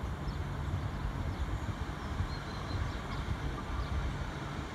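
Diesel multiple unit approaching the station: a steady low rumble with a few faint high squeaks.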